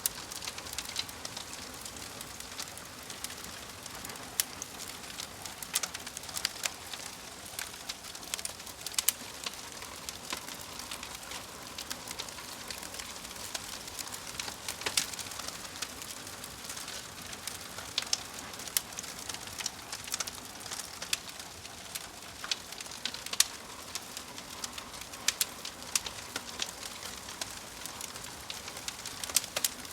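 Wood fire crackling: frequent sharp pops and snaps over a steady soft hiss.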